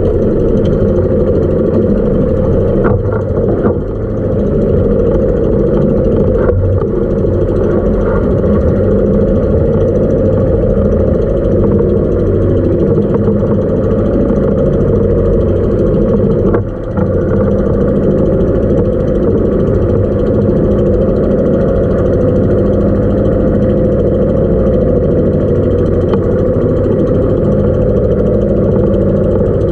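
A small motorized outrigger boat's engine running steadily underway, with water rushing past the hull.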